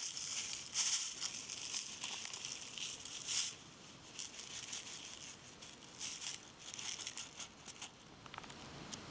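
Irregular crinkling and rustling of something crinkly being handled, louder in the first few seconds and sparser and fainter after.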